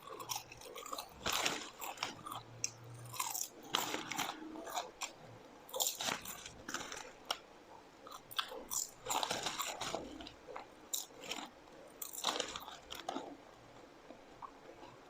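A person chewing and biting crunchy food close to the microphone: irregular crisp crunches in clusters, with brief pauses between mouthfuls.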